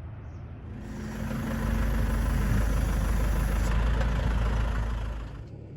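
A vehicle engine running with a low rumble that grows louder about a second in and eases off near the end.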